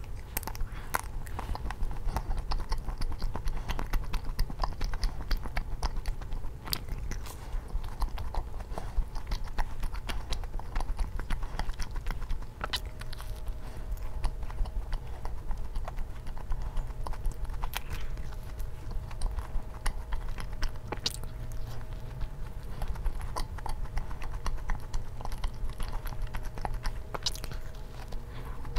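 Close-miked chewing and biting of soft glazed doughnuts, with many small wet mouth clicks as the dough is worked.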